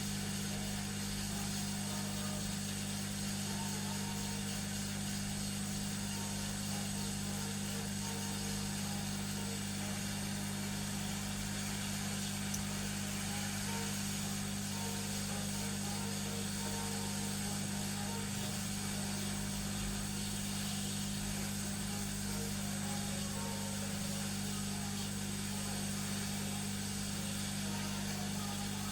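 Hot air rework gun blowing steadily, a continuous airy hiss over a low fan hum, while heating a chip to desolder it from a tablet's circuit board.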